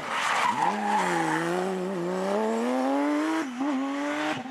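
Porsche rally car under hard acceleration, its engine note climbing steadily with a sharp dip for a gear change about three and a half seconds in. It opens with a short burst of tyre noise.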